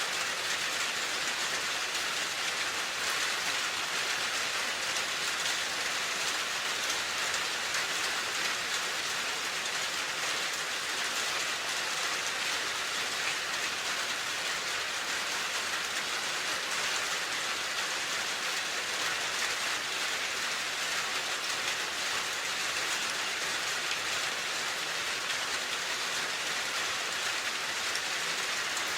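Steady rain falling and pattering on a surface, an even hiss without a break.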